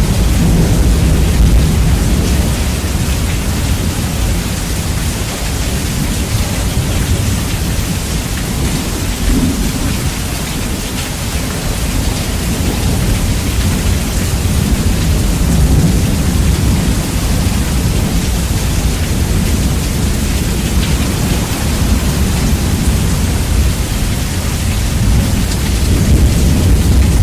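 Rain with a thunderstorm's continuous low rumble, bass-boosted so that the deep rumble dominates and is very loud. It stays steady with a few slow swells.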